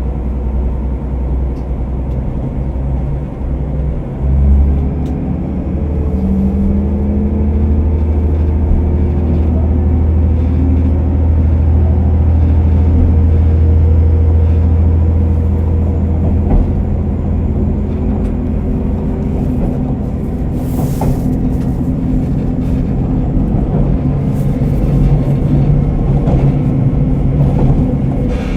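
JR KiHa 47 diesel railcar's engine heard from inside the cabin, muffled. It opens up about four seconds in and runs hard under power, pulling the car away with a rising drone. It eases back about two-thirds of the way through.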